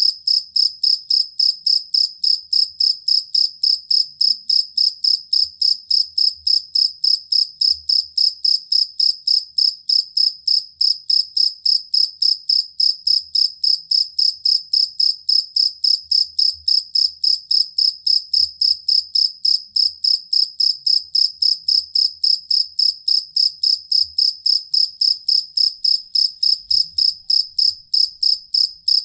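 Field cricket (jangkrik kalung) chirping steadily, a high-pitched chirp repeated evenly about three times a second without a break.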